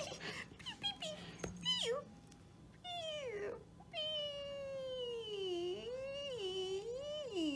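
Cat-like meowing calls, a strange sound meant to catch a puppy's attention: a few short falling calls, then one long wavering meow starting about four seconds in that dips and rises several times.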